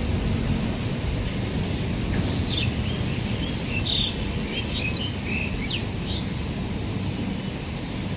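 Steady low rumble of a running train, with a run of short, high bird chirps from about two and a half to six seconds in.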